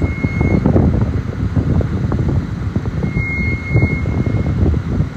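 Wind buffeting the phone's microphone over the rumble of street traffic. A steady high tone sounds briefly at the start and again for about a second and a half just past the middle.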